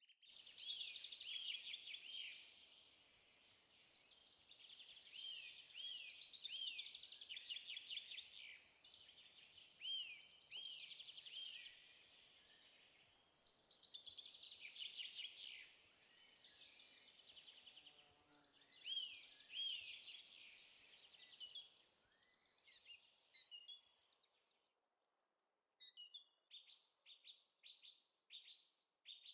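Birds singing faintly, a continuous stream of quick chirps and trills. Near the end, after a short pause, a bird repeats a short falling chirp about twice a second.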